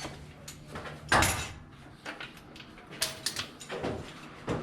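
Metal clanks and knocks from hand tools working on a stuck part. The loudest clank comes about a second in, a quick cluster follows around three seconds, and another knock comes near the end.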